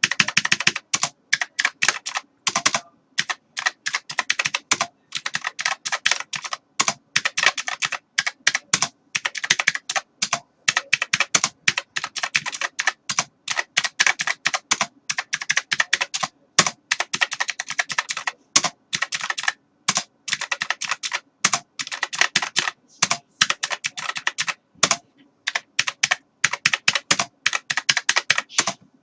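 Computer keyboard being typed on continuously, fast irregular key clicks in quick runs with brief pauses between them.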